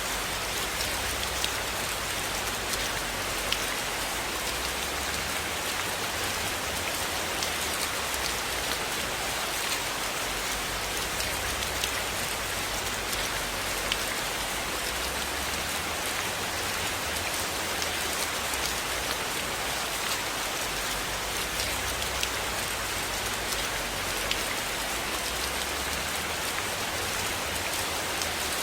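Steady rain falling on a cabin roof, with a wood fire crackling softly in a fireplace: scattered faint pops over the even hiss of the rain.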